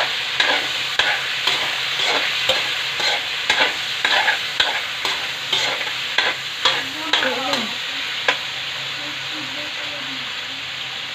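Meat pieces and minced garlic sizzling steadily in hot oil in a wok, stirred with a spatula that scrapes and clicks against the pan about twice a second. The stirring thins out after about eight seconds, leaving mostly the sizzle.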